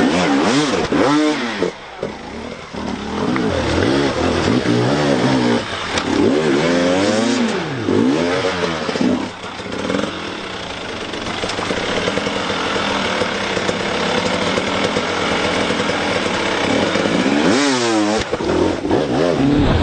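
Motocross bike engines revving up and falling back over and over as the bikes race, with a steadier engine drone in the middle stretch.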